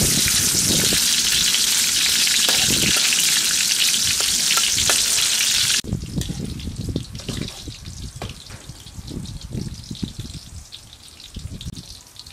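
Meatballs frying in hot oil in a steel wok, a loud steady sizzle with a metal spatula stirring through them. About six seconds in the sizzle drops away abruptly, leaving quieter stirring with short knocks and scrapes of a metal ladle against the wok.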